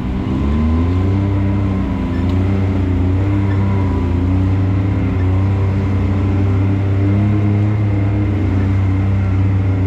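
Can-Am Maverick X3's turbocharged three-cylinder engine running at low, steady throttle while crawling a trail, its revs rising and falling gently.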